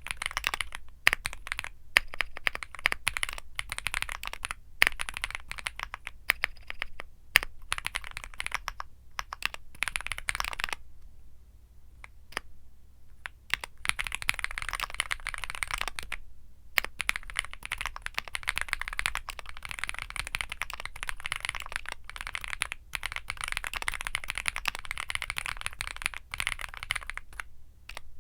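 Fast typing on a Womier SK75 mechanical keyboard with Womier Mint Blizzard switches: a dense, continuous stream of keystroke clicks that stops for a couple of seconds near the middle, then resumes.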